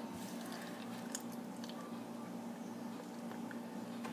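A person chewing a mouthful of banana quickly, with small wet mouth clicks, over a steady low hum.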